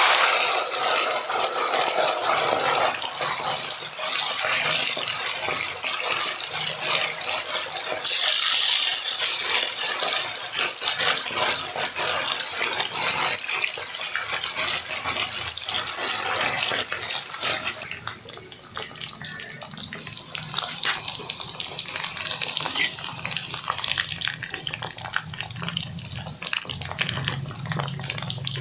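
Heavy rain falling steadily in a dense crackling patter, briefly quieter a little past the middle.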